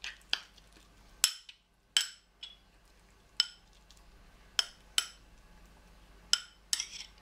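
Spoon clinking against a small glass bowl while stirring pesto: about ten separate sharp clinks at uneven intervals.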